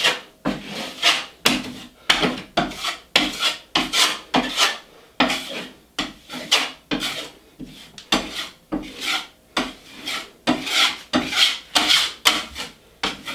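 Metal drywall taping knife scraping joint compound in quick repeated strokes, about two a second.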